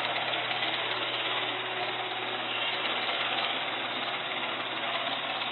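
Steady machine noise, running evenly without change.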